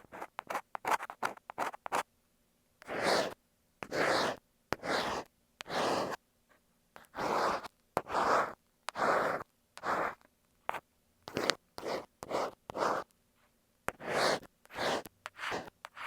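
Ear pick scratching and scraping against an earphone microphone held close, in a run of separate strokes: quick short scrapes at first, then longer strokes of about half a second each.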